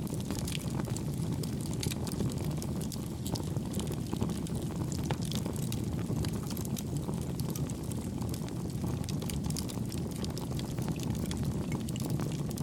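Wood fire burning with a steady low rumble and frequent small, sharp crackles and pops.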